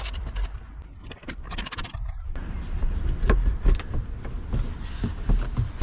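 Scraping and light knocks of someone moving and handling things under a car, with two short rasping bursts in the first two seconds.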